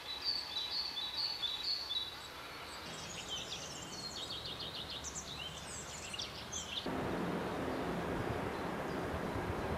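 Songbirds singing outdoors: a run of about five short, high chirps, then a fast chattering trill. About seven seconds in, an abrupt cut brings in a louder, steady rushing noise that covers them.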